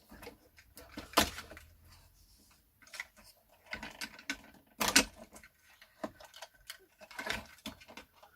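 Scattered clicks and knocks of small parts and tools being handled while taking a radio apart, with two sharp knocks, one about a second in and one about five seconds in.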